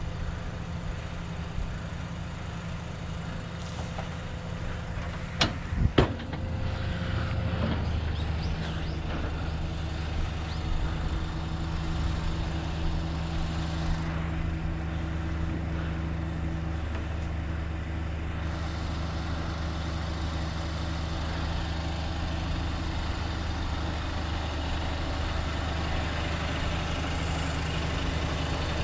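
Heavy truck's diesel engine running steadily, stepping up to a higher, steady speed about eight seconds in. Two sharp knocks sound shortly before the rise.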